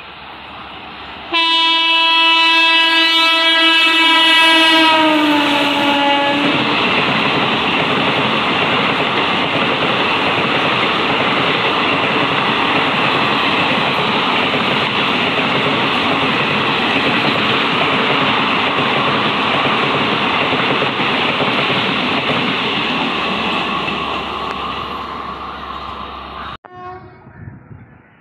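An Indian Railways express locomotive sounds one long horn blast of about five seconds, which drops in pitch near its end as the locomotive passes. The ICF-coach train then rushes through the station at speed with a steady noise of wheels and coaches for about twenty seconds, fading before it cuts off abruptly.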